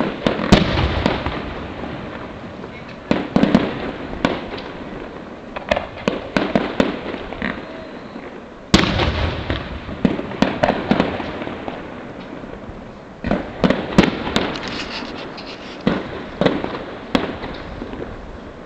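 Fireworks display: four big aerial shell bursts, near the start and at about three, nine and thirteen seconds in, each a sudden bang with a long fading rumble, with many short sharp pops scattered between them.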